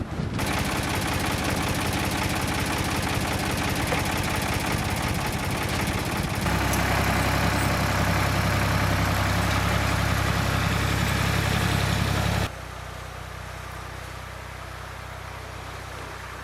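Woodmizer LT28 portable sawmill's engine running steadily. It gets louder about six seconds in, then drops abruptly to a quieter, steady run a few seconds before the end.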